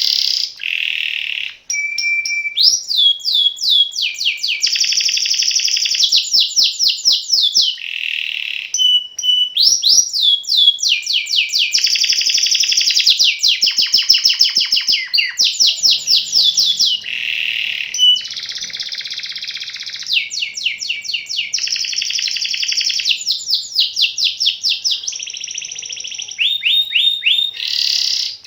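Domestic canary singing a long, nearly unbroken rolling song. Fast trills of repeated rising and falling notes alternate with buzzy rolls, and the phrase changes every second or two with barely a pause.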